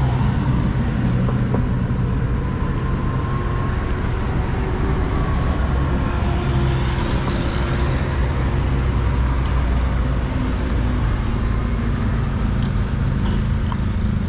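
Street traffic: car and other vehicle engines running and passing close by, a continuous low rumble.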